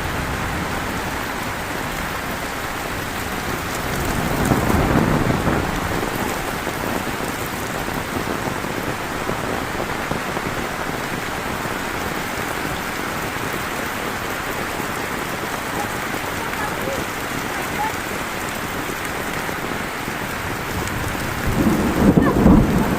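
Heavy rain falling steadily, with louder swells about four seconds in and again near the end.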